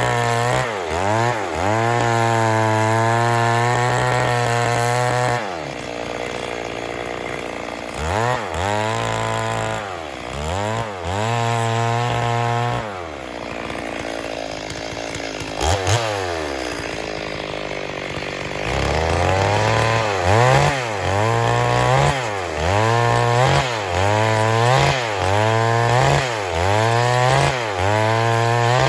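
Stihl MS 382 two-stroke chainsaw running, held at high speed for the first few seconds, then dropping and swooping up and down. It settles to a low idle in the middle and is then revved up and down about once a second near the end.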